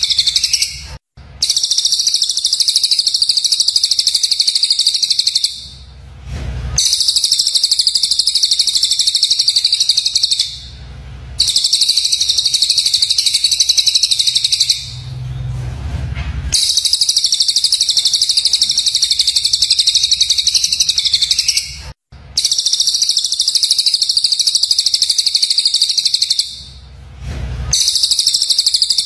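Recorded songbird song: a loud, high-pitched, very fast chattering trill that runs in stretches of several seconds, with short breaks between them. These are the harsh rapid 'tembakan' phrases used as masteran to teach a caged oriental magpie-robin.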